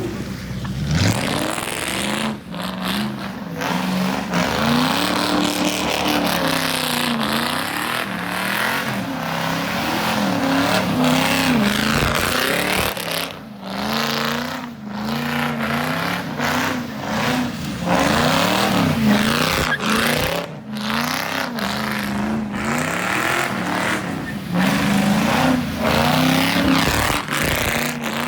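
Car engine revved hard over and over, its pitch climbing and falling every second or two, over a loud steady hiss.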